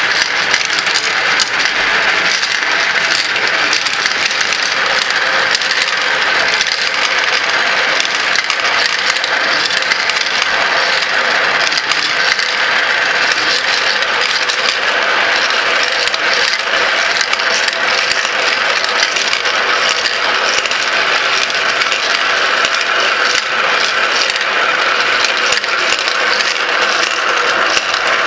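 Glass marbles rolling and clicking through a marble run: a dense, steady stream of small clicks and rattles with no pauses.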